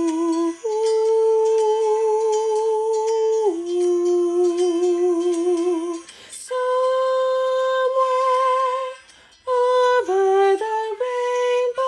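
Choir voices humming a slow wordless melody in long held notes with vibrato, in two-part harmony, with short breaks between phrases about six and nine and a half seconds in.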